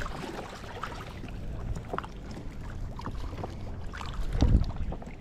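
Strong wind buffeting the microphone as an uneven low rumble, with a louder gust about four and a half seconds in and scattered faint clicks over it.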